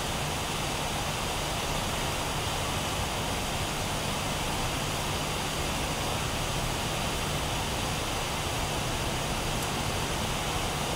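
Steady rushing background noise with a low hum underneath, unchanging throughout, and a faint tick near the end.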